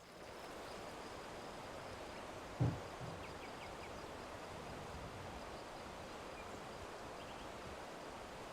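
Steady outdoor background noise, with a single low thump about two and a half seconds in and a few faint, short high chirps.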